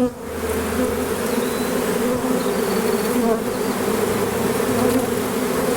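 A swarm of honey bees in flight around the microphone, a steady, continuous buzzing hum with a low and a higher drone. The bees are airborne just after being shaken into a skep, still circling the spot where they had clustered.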